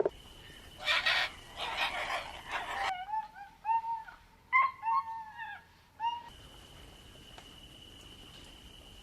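Animal calls: a few harsh, rough calls, then a run of short whistled, arching call notes like a bird's or an owl's, then only a faint steady high tone.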